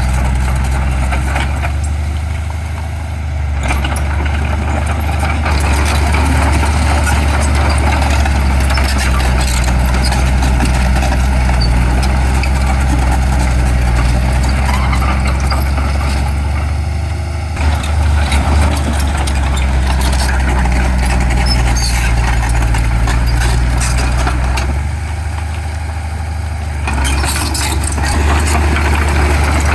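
Heavy diesel earthmoving machinery running steadily, a deep engine drone with metallic rattling and clatter over it. The clatter fades briefly three times.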